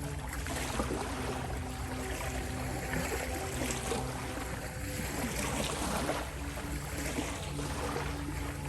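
Ocean waves washing and splashing, swelling and easing every second or two, over a soft ambient drone of held low tones from 528 Hz healing-frequency relaxation music.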